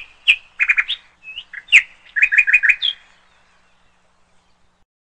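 A small songbird singing a rapid phrase of sharp chirps and short trills, which stops about three seconds in.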